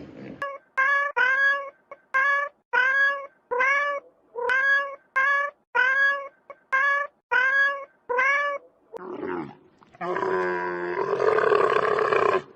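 An animal calling: about a dozen short, pitched calls in quick succession, then a longer, harsher call from about ten seconds in.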